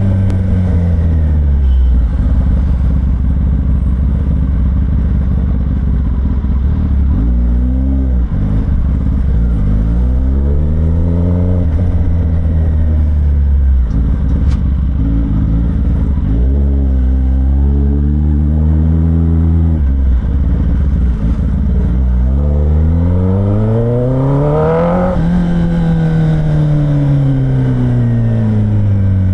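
Kawasaki ZX10R's inline-four engine, with the catalytic converter and stock exhaust removed, revving up and easing off while riding. Its pitch climbs several times, the biggest climb peaking about 25 seconds in, then falls away slowly.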